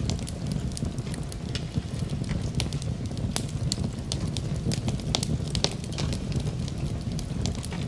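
Wood fire burning in a fireplace: irregular sharp crackles and pops, a few louder ones in the middle, over a steady low rumble of the flames, perhaps with storm wind outside.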